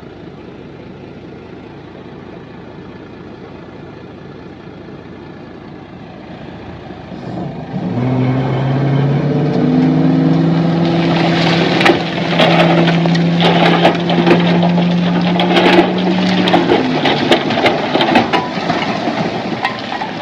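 Heavy diesel engine running low, then revving up and holding high under load from about 8 seconds in. From about 11 seconds, loose stones tumble and clatter in a rapid run of knocks that continues nearly to the end.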